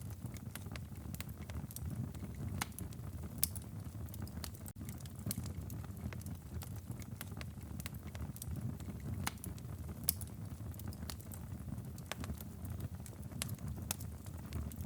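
Wood fire crackling in a fireplace: irregular sharp pops and snaps over a steady low rumble of flame, with a few louder pops along the way.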